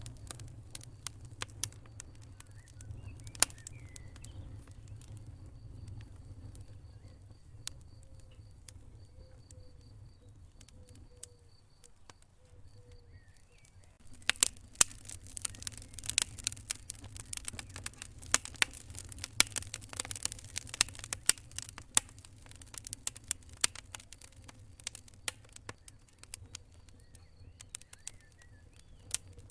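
Wood fire crackling in a fireplace: scattered sharp pops over a low steady rumble, turning into dense, louder crackling about halfway through.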